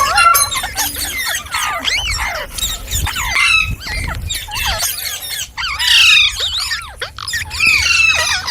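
Indian ringneck parakeet chattering and squawking in a quick run of swooping, whistled calls and shrill chirps, loudest about six seconds in.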